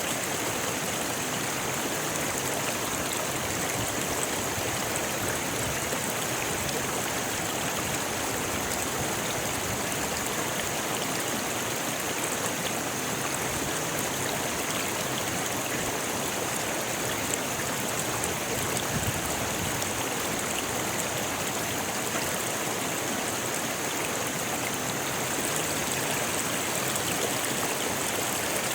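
Rocky river flowing: a steady, even rush of water over stones.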